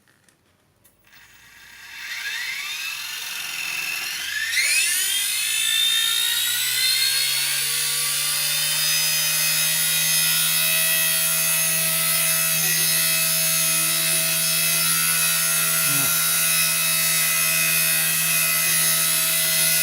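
WLtoys K120 micro RC helicopter spooling up: a whine starts about two seconds in and climbs in pitch, then settles into a steady high whine with a lower hum by about six seconds as the rotor reaches speed.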